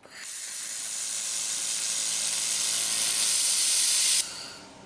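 Handheld laser welding gun running a weld pass: a steady hiss of shielding gas and welding for about four seconds, cutting off sharply near the end as the trigger is released.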